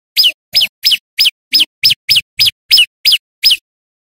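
Prenjak lumut (a prinia) calling loudly: a rapid series of about ten sharp notes, each dropping in pitch, about three a second, stopping shortly before the end.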